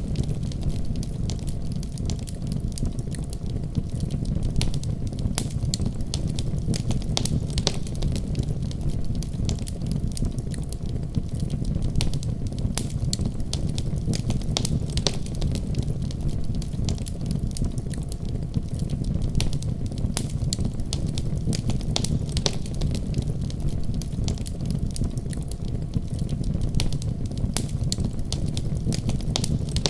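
Wood fire crackling in a fireplace: a steady low rumble of the flames with frequent sharp pops and snaps scattered irregularly throughout.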